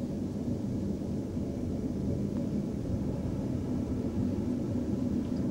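Passenger train running steadily, heard from inside the carriage: an even low rumble and hum with no distinct events.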